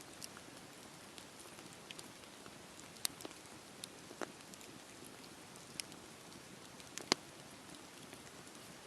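Campfire burning: a faint steady hiss with scattered sharp crackles and pops from the burning wood, the loudest about three and seven seconds in.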